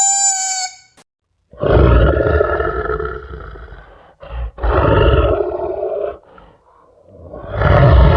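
Three deep, raspy animal roars, each lasting one to two and a half seconds, after a steady tonal howl that cuts off under a second in.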